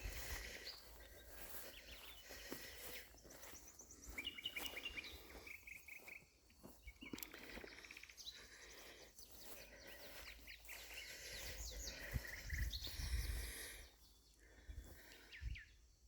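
Several songbirds singing and chirping in a woodland chorus, many short overlapping phrases and trills. A low rumble comes in about twelve seconds in.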